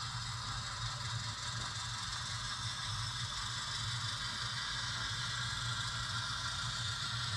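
HO-scale model locomotive shoving a cut of cars: a steady engine-like hum with a light mechanical rattle.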